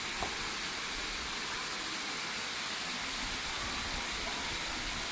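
Rushing water of a rocky stream, a steady, even hiss.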